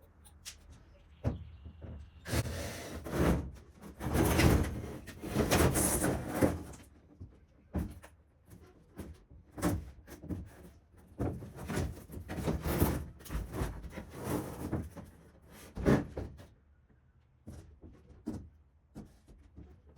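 Irregular knocks, thuds and scraping of hand demolition work inside a caravan, with a longer run of dense scraping and knocking a few seconds in and a sharp knock near the end.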